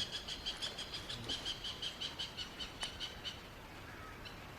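A bird calling: a rapid, even series of about twenty short, high notes over some three seconds, which then stops.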